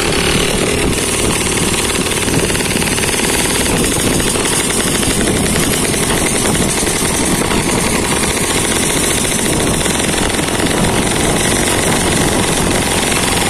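Yamaha F1ZR two-stroke single-cylinder motorcycle engine running steadily at a fast, rattling beat, with no let-up.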